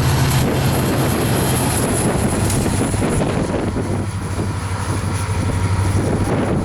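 EMD two-stroke diesel switcher locomotive engine running steadily with a low drone. The drone drops a little in pitch about half a second in.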